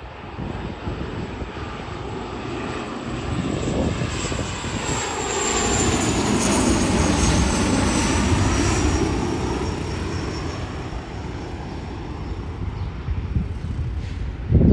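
Airliner's engines passing by: a broad roar that swells to a peak midway and then eases off, with a high whine slowly dropping in pitch as the aircraft goes past.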